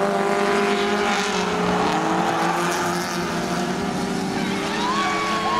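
Rally car engine running at sustained high revs, its pitch shifting slowly up and down. A thin gliding tone joins near the end.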